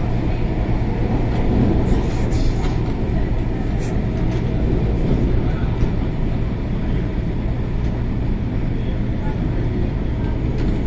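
CAF-built MTR Tung Chung line train running at speed, heard from inside the passenger car: a steady rumble with a constant low hum.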